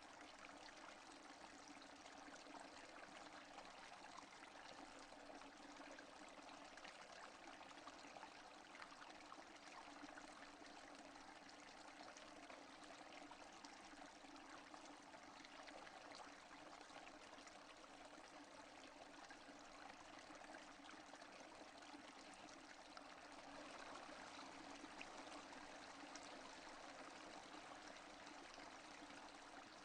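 Steady, faint rain falling without thunder: an even hiss dotted with many small drop ticks.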